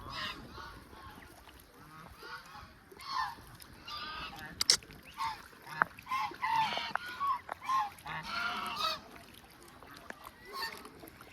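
A flock of waterfowl calling: many short honks, several overlapping, through most of it, with a single sharp click about halfway.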